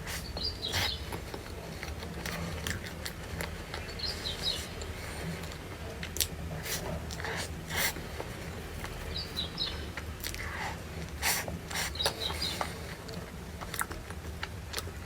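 Chewing and biting with crisp crunches scattered irregularly, over a steady low hum. Short high chirps recur every few seconds.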